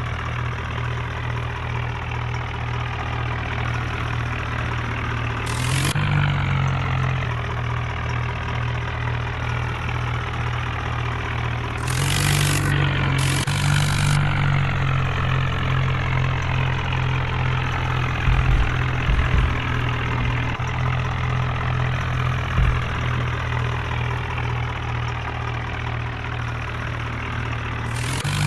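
Ford 3600 tractor engine running steadily at a low idle. It is revved up briefly about six seconds in, again around twelve seconds, and once more near the end.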